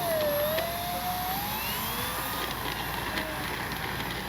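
Brushless electric motor and propeller of an FMS 1500 mm Cessna 182 Skylane RC plane, whining with a pitch that dips at first and then rises as the throttle changes.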